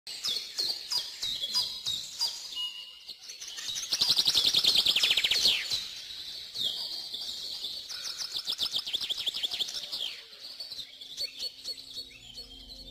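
A songbird singing: a run of quick descending chirps, with fast trills about four seconds in and again around eight seconds.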